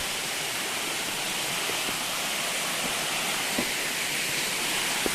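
Waterfall: a steady rush of falling water, with a couple of faint knocks about three and a half and five seconds in.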